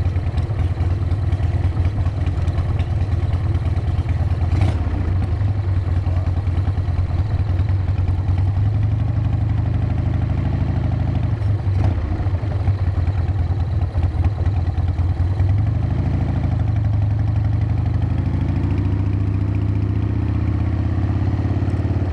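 Harley-Davidson V-twin motorcycle engine running steadily while riding at cruising speed, with a low, pulsing exhaust note.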